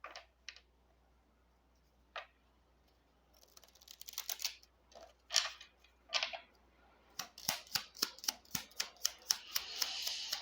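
A deck of baralho cigano cards being shuffled by hand: a few scattered soft swishes and flicks, then, in the last few seconds, a quick run of card clicks and snaps, several a second.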